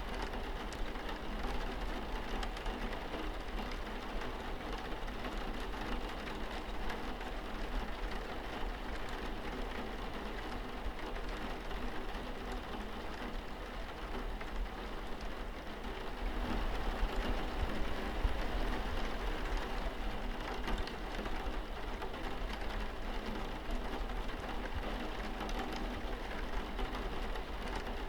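Rain falling steadily on a window, with a constant low hum underneath; it swells slightly a little past the middle.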